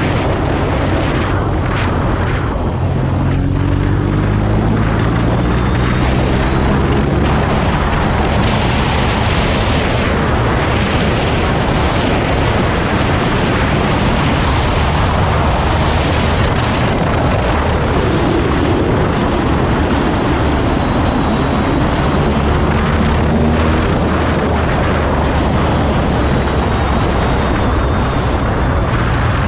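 BMW R nineT Urban G/S's boxer twin engine pulling under way, buried in heavy wind noise on the microphone. The engine's pitch climbs a couple of seconds in, runs on steadily, and climbs again a little past the middle.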